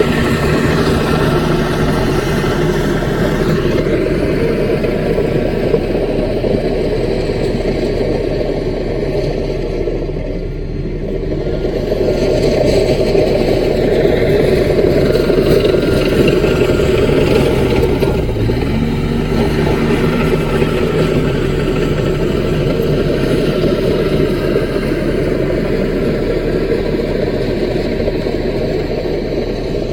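CAT mini bulldozer's diesel engine running steadily as it works. It eases off briefly about ten seconds in, then picks up again.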